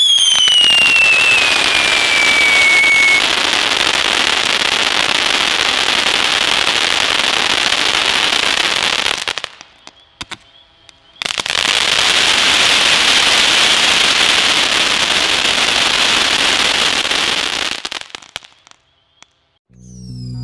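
Brothers 'Cat Calls' fountain firework burning: a whistle falling in pitch over the first three seconds, then a dense, steady crackling spray. The sound cuts out for a moment about ten seconds in, comes back, and stops a couple of seconds before the end.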